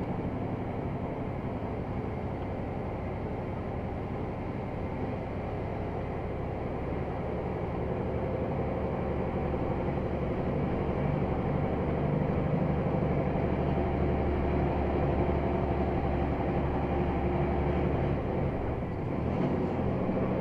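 Scania XT G500 8x8 truck's six-cylinder diesel engine running under load, hauling a full cargo of rubble; the engine grows louder about a third of the way in and then holds steady.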